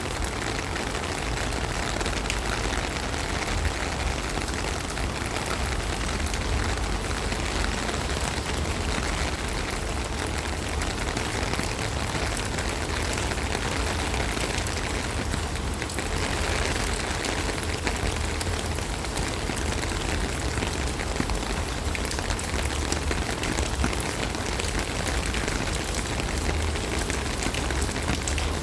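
Steady rain falling: a dense, even hiss sprinkled with many small drop ticks, with a low rumble underneath.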